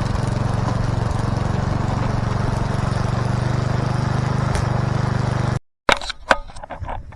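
Small engine running with a steady drone, cutting off abruptly about five and a half seconds in, followed by a few sharp clicks or knocks.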